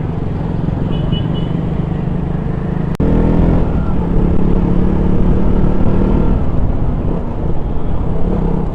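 KTM Duke 200's single-cylinder engine running under way, with road and wind noise. After a brief cut-out about three seconds in, the engine note climbs as the bike accelerates.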